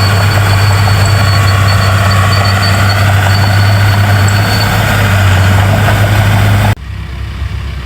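Heavy diesel engine of earthmoving machinery running steadily with a strong low hum. Near the end it cuts off abruptly to a quieter engine sound.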